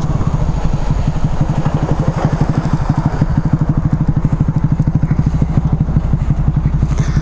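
Motorcycle engine running steadily with an even, rapid low pulse.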